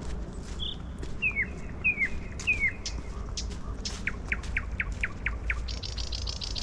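Small songbirds calling: three separate down-slurred notes, then a quick run of about seven falling notes, a little over three a second, over soft crackles.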